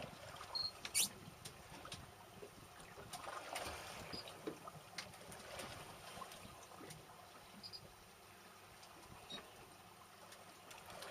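Water lapping and trickling against a small boat's hull, with scattered light clicks and a few short high squeaks.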